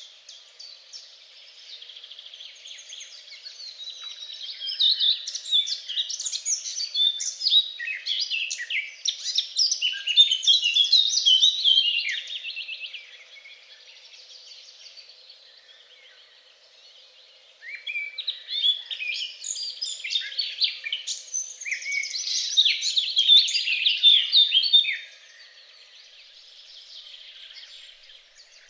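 Songbirds singing: two long bouts of rapid, high chirping notes, the first about four seconds in and the second a little past halfway, each ending abruptly, with quieter calling between them.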